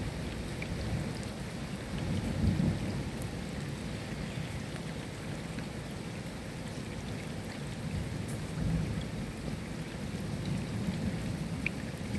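Steady rain with scattered drops ticking, over low thunder rumbling that swells about two seconds in and again near nine seconds.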